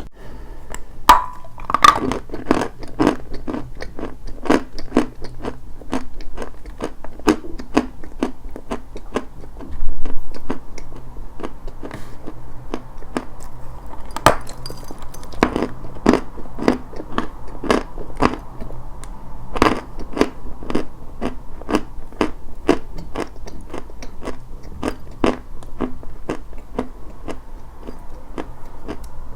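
Dry white chalk being bitten and chewed close to the microphone: a steady run of crisp crunches, about two to three a second, with a loud bite about ten seconds in.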